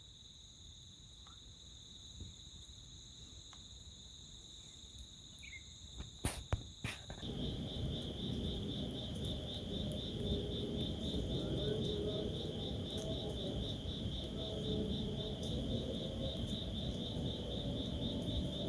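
Crickets trilling steadily in a high, unbroken tone, with a few sharp clicks about six to seven seconds in. After that the trill turns into a fast pulsing chirr and a low rustling noise comes up beneath it.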